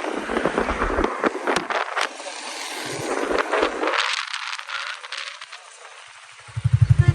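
Dense rattling and crackling clicks for about four seconds, then quieter, and near the end a loud, low, rapid pulsing as a motorcycle engine starts up.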